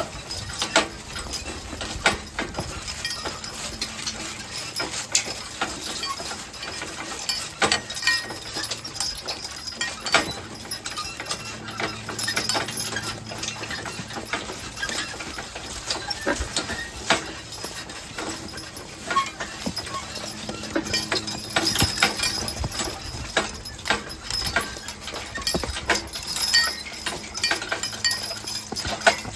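Team of draft horses walking, hooves clopping irregularly along with scattered clinks and knocks.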